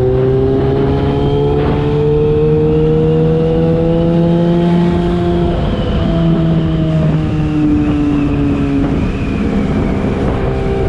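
Yamaha FZ6's inline-four engine through a LeoVince exhaust, running steadily. Its pitch rises slowly over the first few seconds, eases down in the middle, then holds level near the end.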